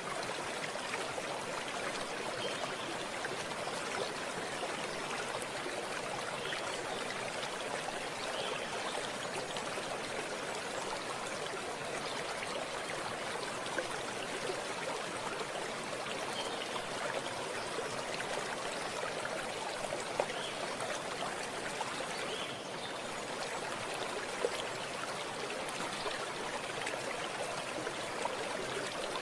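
Running water flowing with a steady, even rush. A few faint brief ticks sound here and there.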